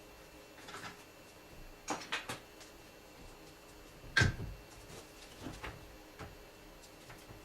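Tools and car parts being handled during assembly under the hood: scattered clicks and knocks, a few quick clatters about two seconds in and one louder thump with a short ring about four seconds in.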